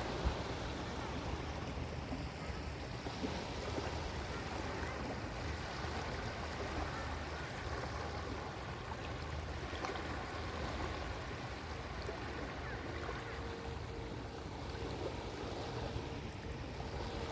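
Sea waves washing steadily onto a beach, a continuous hiss of surf. A faint steady hum joins about thirteen seconds in.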